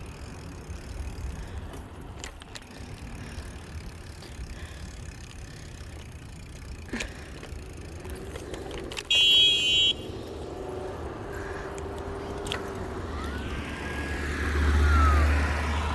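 Steady outdoor rumble of wind and riding on a street, with a loud, high one-second beep about nine seconds in. Near the end a car passes, its rumble swelling and fading.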